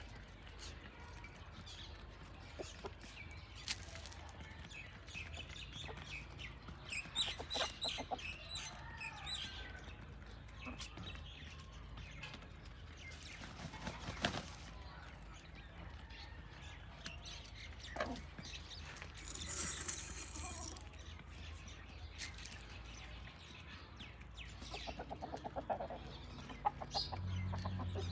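Hens clucking on and off, short calls scattered in clusters over a faint steady background.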